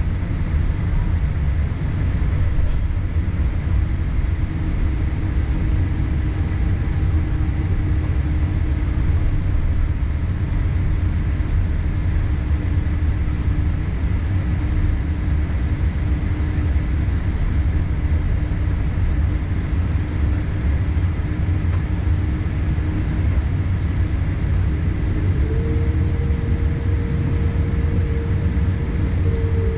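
Steady low rumble of cabin noise inside a Boeing 787-8 on the ground after landing. A faint held tone steps up in pitch about 25 seconds in.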